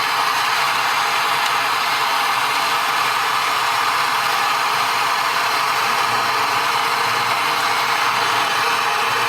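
Loud, steady FM radio static from a newly installed aftermarket car stereo tuned to FM with no antenna connected; it stops suddenly.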